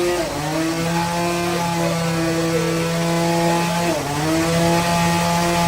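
Bandsaw sawmill running with a steady motor note, its pitch dipping briefly and recovering just after the start and again about four seconds in.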